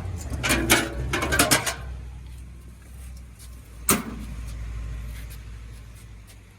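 Metal utility-bed compartment hardware on a Knapheide service body rattling and clanking for about two seconds, then one sharp bang about four seconds in, over a low steady rumble.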